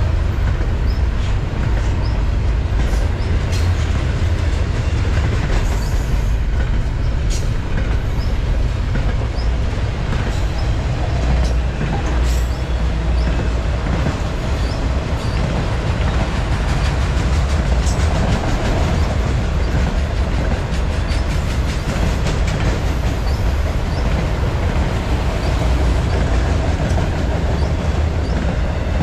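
Freight train of double-stack container cars and autorack cars rolling past close by: a steady low rumble of wheels on rail, with scattered clicks and a few brief high wheel squeals.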